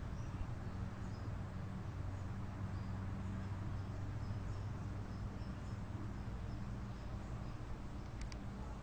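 Outdoor ambience: a steady low hum with faint, scattered high bird chirps, and two sharp clicks near the end.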